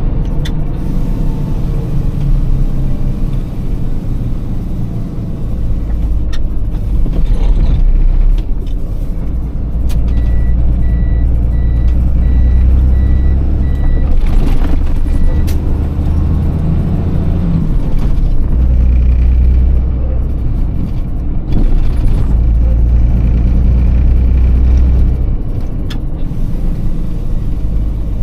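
Iveco Tector six-cylinder diesel truck engine heard from the cab while driving in town, its note climbing and dropping several times as it pulls through the manual gears. Between about ten and fifteen seconds in, a high electronic beeper sounds about seven times at an even pace.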